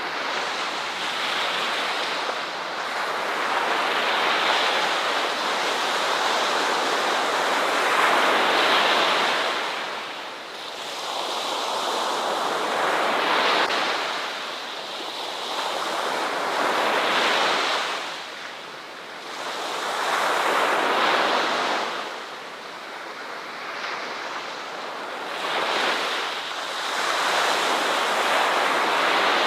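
Ocean waves breaking on a shore. The rushing surf swells and fades in surges a few seconds apart.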